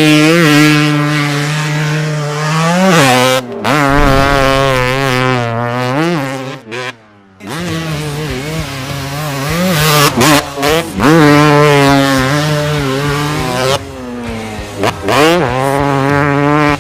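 Dirt bike engine sound, running at a steady pitch with a few rises and dips in revs, cutting out briefly about seven seconds in.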